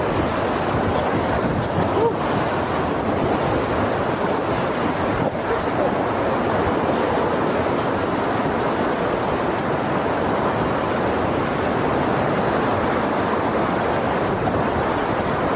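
Steady rushing of whitewater rapids around a raft on a river swollen after a typhoon, with wind buffeting the microphone.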